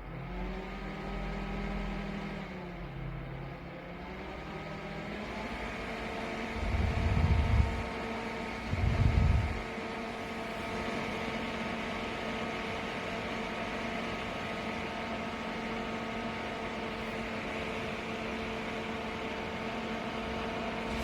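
Small electric fan motor of a mini portable air cooler running with a steady hum, switching on abruptly and shifting pitch during the first few seconds before settling. Two loud low rumbles, each about a second long, come around seven and nine seconds in.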